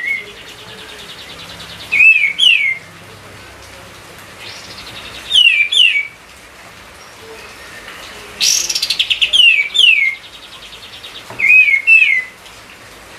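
Kapas tembak songbird singing loud, repeated phrases of two or three quick downslurred whistles every few seconds. A harsh, rapidly pulsed chattering burst comes about eight and a half seconds in, and faint fast trills fill the gaps.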